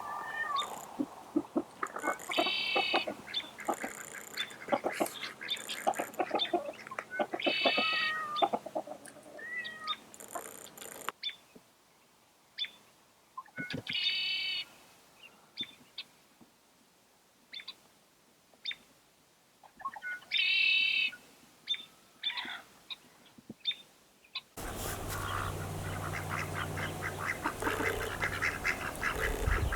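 Birds calling: a repeated high call four times, about six seconds apart, among scattered short peeps and clicks. Near the end it changes suddenly to a dense run of rapid calls over a low steady hum.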